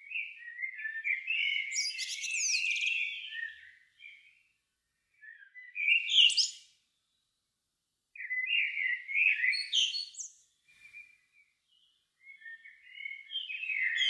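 Evening birdsong: a songbird singing in four separate warbling phrases, each ending in higher twittering notes, with short pauses between them.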